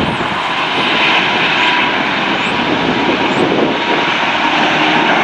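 Jet airliner engines running, a loud steady rush of engine noise from a heavy jet.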